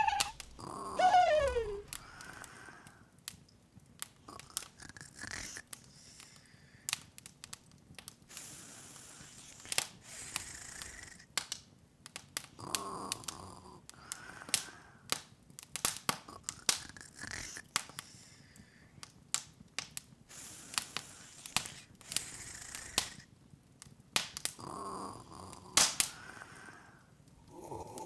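Open fire crackling with frequent irregular sharp pops over a soft hiss. A short falling whistle-like tone sounds in the first two seconds.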